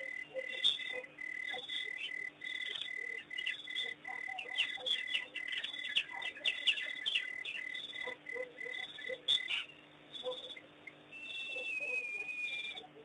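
Outdoor animal chorus at a waterhole: an insect trill pulsing steadily at one pitch, which stops about ten seconds in, over many short high chirps. Near the end comes one long whistled note that falls slightly in pitch.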